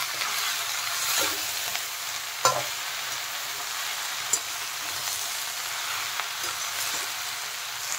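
Chopped water spinach and vegetables frying in hot oil in a metal pan while being stirred with metal tongs: a steady sizzling hiss with a few sharp clicks of the tongs on the pan, the loudest about two and a half seconds in.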